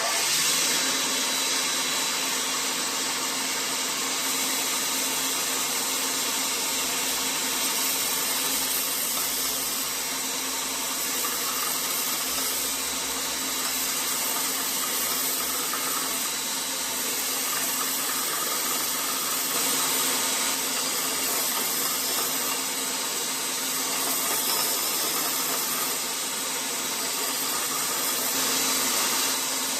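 2x42 belt sander running with a 180-grit belt, grinding a nickel-plated steel 1911 pistol frame: a steady motor hum under the even hiss of the abrasive, swelling slightly now and then as the frame is worked against the belt.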